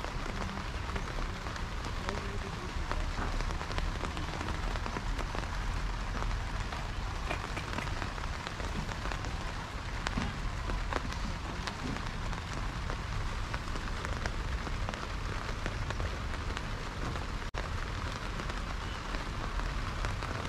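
Steady rain falling, with many individual raindrops ticking sharply close by, and a momentary break in the sound about three-quarters of the way through.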